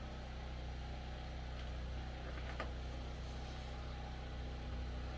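Portable generator engine running steadily, a constant low hum, with a faint click about two and a half seconds in.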